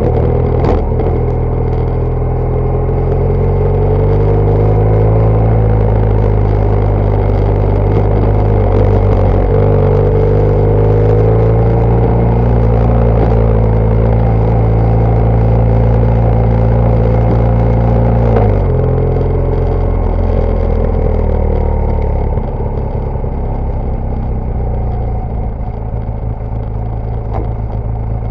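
BMW R1200GS Adventure's flat-twin engine running under throttle while riding off-road. The revs rise a few seconds in, hold steady, then drop sharply about eighteen seconds in and settle lower after about twenty-two seconds.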